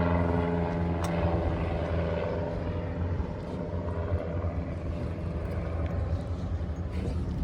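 An engine droning steadily at a low pitch, with a higher tone over it that fades away over the first few seconds.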